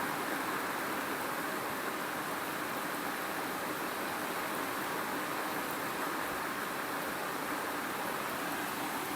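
Steady rain falling, an even rushing hiss without breaks.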